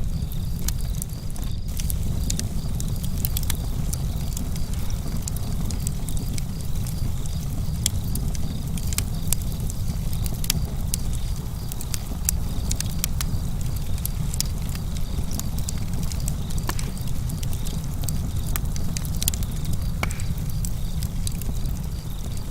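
Campfire crackling: frequent sharp pops and snaps scattered irregularly over a steady low rumble.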